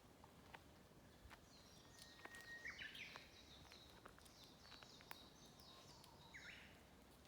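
Faint bird calls: a run of short, high, falling notes lasting about five seconds, with a brief steady whistle partway through. Scattered faint clicks.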